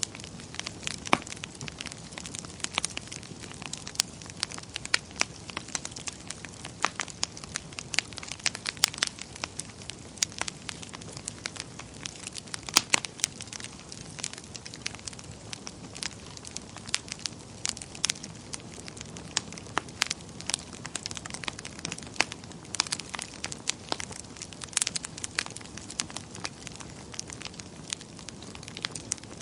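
Wood fire in a fireplace crackling: a steady soft hiss of flames with frequent sharp, irregular pops and snaps of burning wood.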